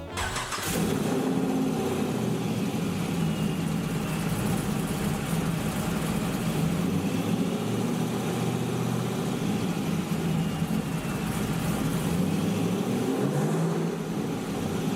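1969 Chevrolet Camaro restomod's engine running steadily at idle, with a brief dip and pick-up in engine speed near the end.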